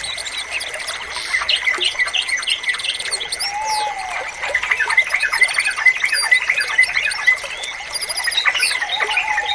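Yellow-vented bulbul (trucukan) song mixed into a dense chorus of rapid chirps and short whistled notes from several birds. A steady high tone runs underneath throughout.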